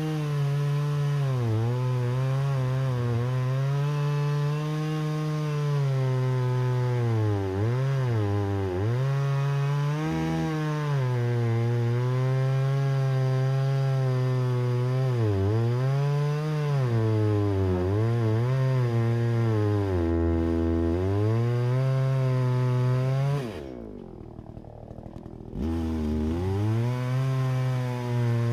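Chainsaw running at high revs while cutting a log, its pitch dipping and recovering again and again as the chain loads up in the wood. Near the end it drops to a quieter idle for about two seconds, then revs up again.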